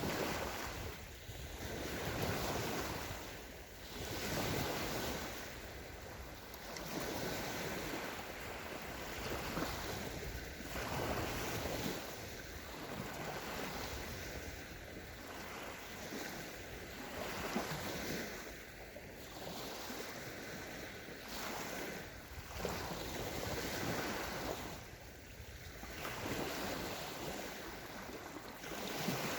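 Small sea waves breaking and washing up a sandy shore, the surf swelling and ebbing every two to three seconds.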